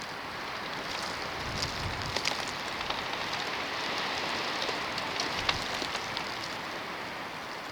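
Snowstorm: a steady hiss of wind-driven snow, with scattered small ticks of flakes or ice grains striking surfaces.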